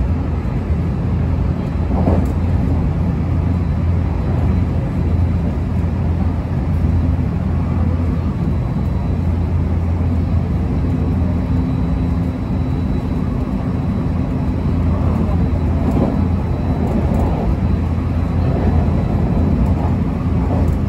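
Cabin noise of a JR Kobe Line Special Rapid electric train running at speed: a steady low rumble of wheels on rails.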